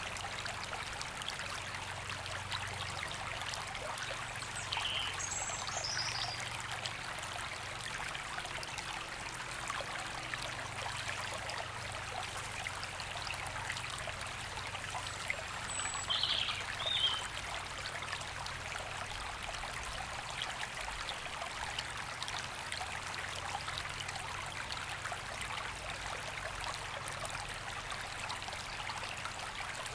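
River water running steadily over stones, an even rushing trickle. Brief high bird calls come through it about five seconds in and again around sixteen seconds.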